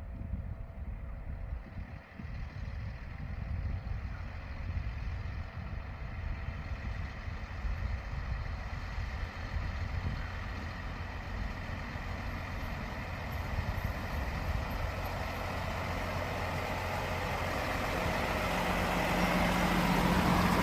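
Hi-rail truck running on the rails, its engine and running noise growing steadily louder, with a low engine note coming up near the end.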